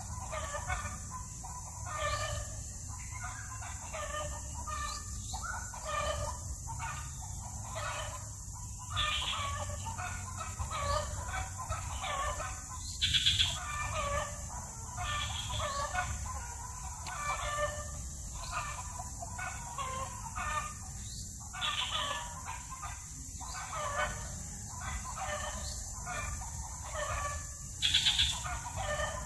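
Domestic chickens clucking repeatedly, with a rooster crowing twice, about halfway through and near the end.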